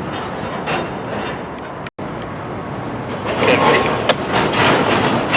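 Freight train moving through a rail yard: a steady rumble of rolling cars with rattling clatter. The sound cuts out abruptly for a moment about two seconds in, then grows louder and busier from about three seconds on.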